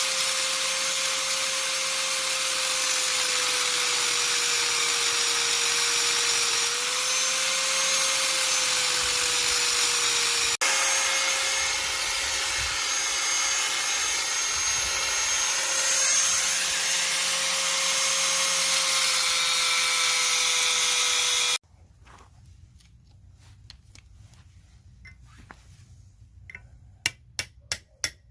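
Handheld electric power tool running steadily under load with a whine that wavers slightly in pitch, cutting off suddenly about 21 seconds in. Then a few light metallic clinks near the end.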